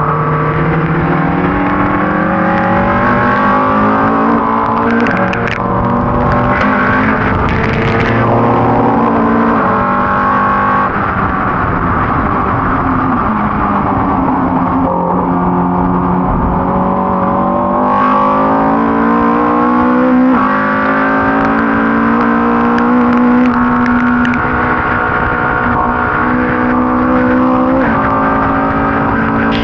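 Ford Cortina race car's engine under hard racing load. Its pitch climbs through each gear with sharp drops at the upshifts, and falls away in places under braking and downshifting.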